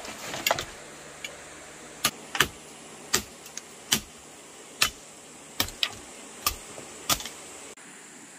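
A series of about ten sharp knocks or clicks at irregular intervals, roughly one every half second to a second, over a steady hiss.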